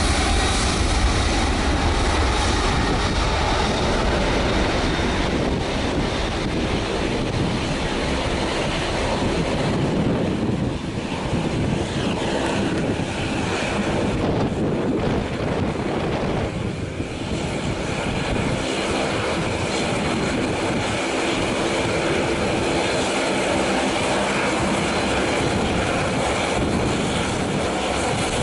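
Boeing 767-300's twin jet engines at take-off power, a loud steady roar with many steady tones in it; the deep rumble fades over the first few seconds as the airliner climbs away.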